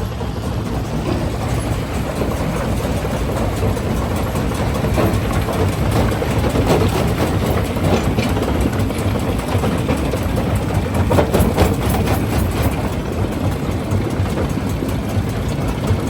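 Quarry primary jaw crusher running under load: a steady, heavy low drone with scattered sharp knocks and cracks of rock being broken in the jaws.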